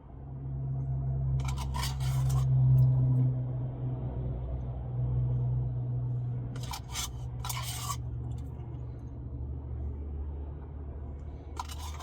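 A spoon scraping and clinking in a Blizzard cup in three short bursts, over a low steady hum.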